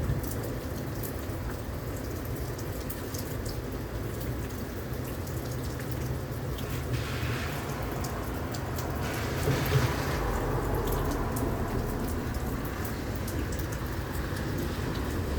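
Heavy rain pouring steadily in a thunderstorm. The rain swells heavier around the middle, and a deep low rumble of thunder starts about two-thirds of the way in.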